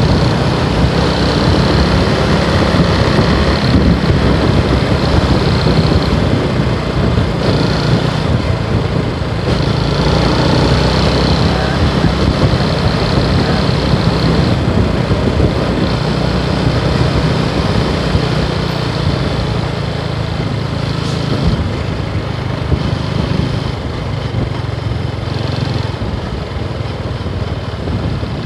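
Motorcycle engine running steadily while riding, under a constant rush of road and wind noise; its pitch shifts a little as speed changes.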